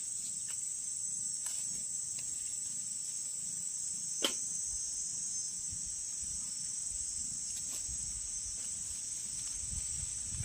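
Crickets chirping in a steady, continuous high-pitched drone, with one sharp click a little past four seconds in.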